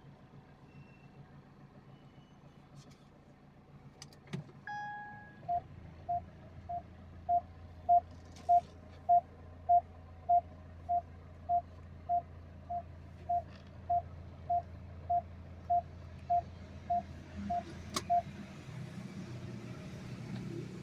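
A car's electronic warning chime beeping at an even pace, a little under two beeps a second, about twenty times, over a low steady hum. It begins just after a click and a short single tone, and stops at a second click near the end.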